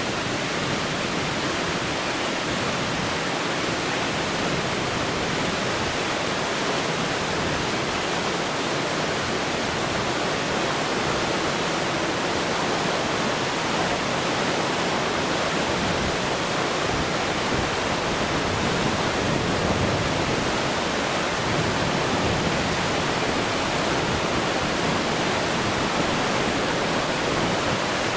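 Steady, unbroken rushing of water, like a waterfall or fast stream.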